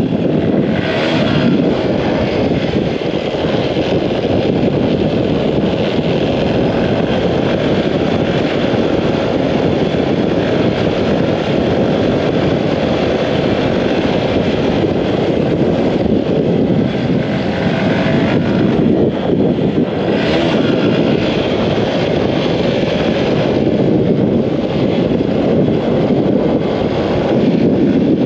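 Wind buffeting the microphone of a moving motorcycle, a loud continuous roar over the motorcycle's running engine.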